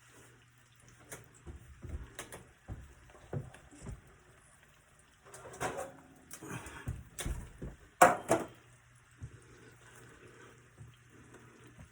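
Kitchen handling noises: irregular knocks and clatter of cookware and utensils, busiest in the middle, with one sharp clack about eight seconds in, over a faint low steady hum.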